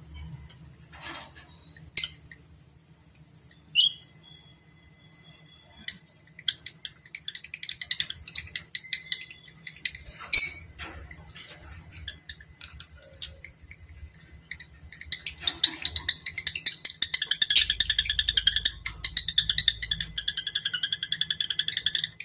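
Lovebirds calling: a few sharp, shrill single chirps in the first half, then rapid, continuous high-pitched chattering for the last third. One of the birds is in breeding condition.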